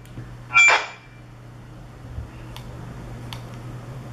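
A handheld radio speaker gives a short burst of static with a high beep about half a second in, like a squelch tail at the end of a transmission. A steady low hum follows, with a couple of faint clicks.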